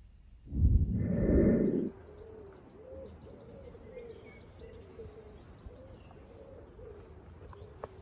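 A loud low rumbling noise lasting about a second and a half, then birds calling: a low call, repeated many times, each one rising and falling, with faint higher chirps.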